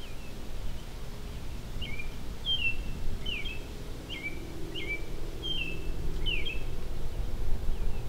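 A songbird calling, a string of short falling chirps repeated steadily for several seconds, over a steady low outdoor rumble.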